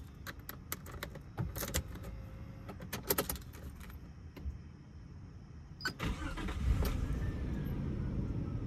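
Keys jangling and clicking in the ignition of a 1997 Nissan Leopard, then about six seconds in the engine cranks, catches and settles into a steady idle.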